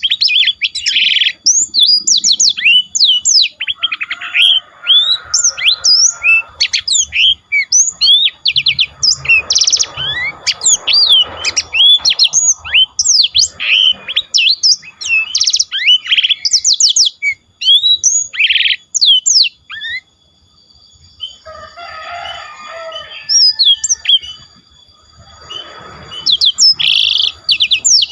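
A songbird singing a long, fluent run of rapid, sweeping whistled notes. About two-thirds through it breaks off briefly and gives a stretch of rougher, lower notes, then takes up the quick whistled phrases again.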